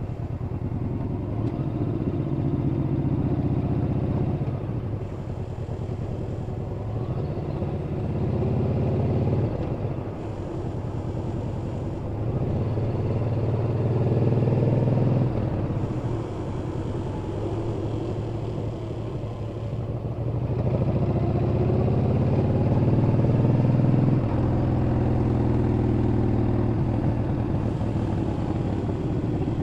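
Yamaha XVS950CU Bolt's air-cooled V-twin engine running under way, its pitch climbing and falling several times as the bike accelerates and eases off.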